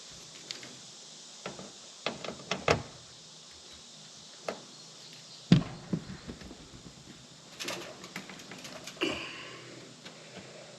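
Scattered clicks, taps and knocks of hand tools, screws and housing parts being handled while screws are taken out of an RV rooftop air conditioner. One sharp knock about five and a half seconds in, and a run of small rattles near the end.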